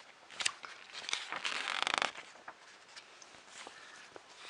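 Magazine pages being handled and turned: a rustle of paper lasting about a second, beginning about a second in, with a few small clicks and taps around it.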